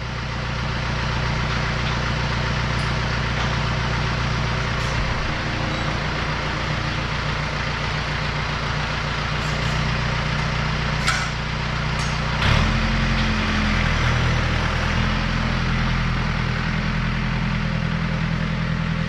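John Deere 970 compact tractor's three-cylinder diesel engine running steadily, its note changing about twelve and a half seconds in, with a couple of light metallic clinks shortly before.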